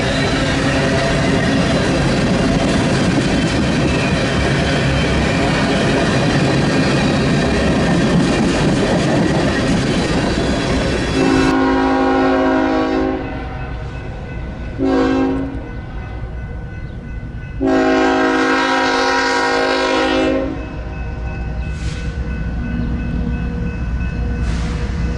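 A train rolling past with a steady loud rumble and wheel noise. Then a locomotive air horn sounds a long blast, a short one and a longer one, with two faint short toots near the end.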